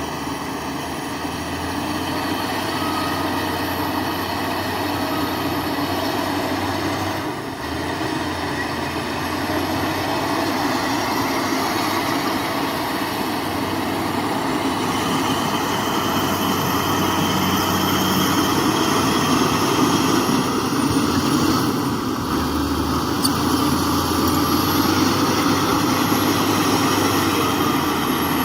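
Heavy earthmoving machinery working: a diesel engine running steadily, with thin steady whines above it. The sound dips briefly about seven seconds in.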